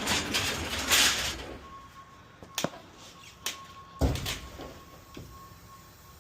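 Metal delivery cart rattling and clanking as it is handled, then a few sharp knocks and a heavier thud about four seconds in. A faint steady tone runs under the second half.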